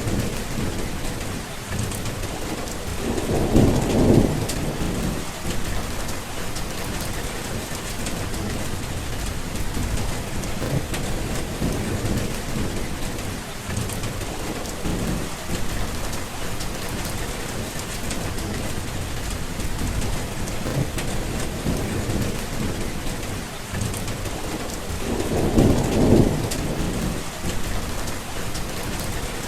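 Steady rain falling through a thunderstorm, with two low rolls of thunder: one a few seconds in and one near the end.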